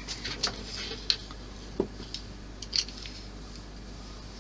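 A few light, separate clicks and taps of small plastic model parts and tools being handled and set down on a work surface.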